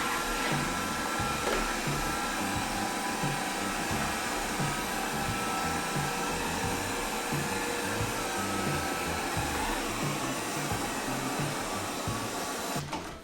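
Alfawise V8S Pro robot vacuum running, its suction fan giving a steady noise with a faint whine over it, cutting off suddenly near the end.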